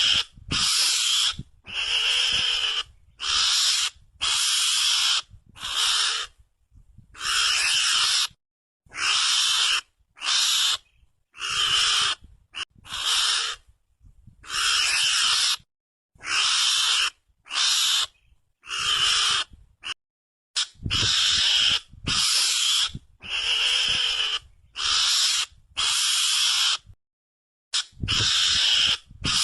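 Mongoose (garangan) lure call: short, scratchy chattering calls repeated about every one and a half seconds, each lasting half a second to a second, with dead silence between them as in an edited, looped recording.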